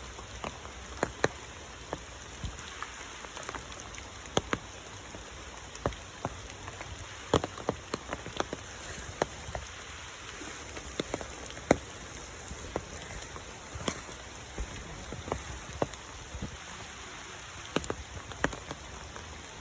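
Rain falling steadily, with irregular sharp drops of water striking close by every second or so.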